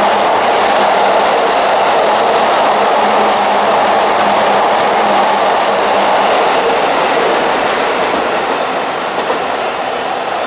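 Electric commuter train running past on the tracks, a steady loud rolling noise of wheels on rails with some clickety-clack, easing off a little near the end.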